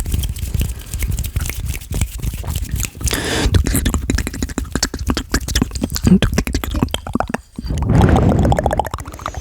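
Close-miked ASMR mouth sounds: a rapid run of wet clicks and smacks from lips and tongue, growing denser and louder near the end.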